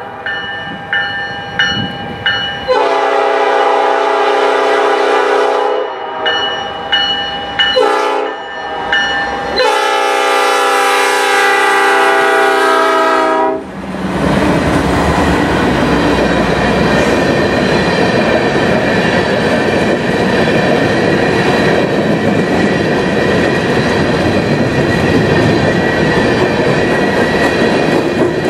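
Horn of BC Rail GE Dash 9-44CW locomotive 4648 sounding a long blast, a short blast and a final long blast that stops about 14 seconds in. The locomotive then passes and covered hopper cars roll by, their wheels clattering steadily on the rails.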